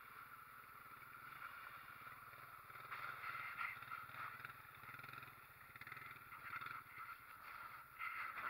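Honda Rancher ATV's single-cylinder engine running steadily at low revs, faint, with uneven water splashing as the quad pushes through a flooded trail.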